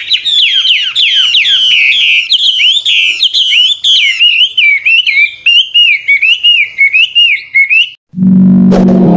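Chinese hwamei singing a rapid, varied series of loud whistled notes, mostly slurring downward, with the phrases changing every second or so. It cuts off about eight seconds in, and electronic music with a rising sweep starts.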